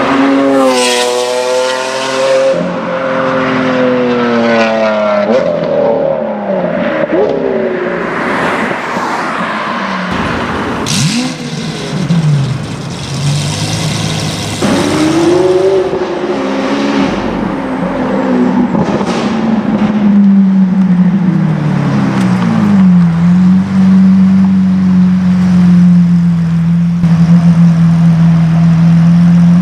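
Lamborghini Aventador V12 with an Akrapovic exhaust, revving and accelerating: its note climbs and drops several times through gear changes, with a few sharp cracks. For the last several seconds it holds a steady, even note.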